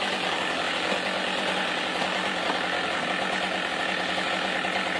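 Water pouring steadily out of a sweet gum tree with an even rushing sound, and a steady low hum underneath.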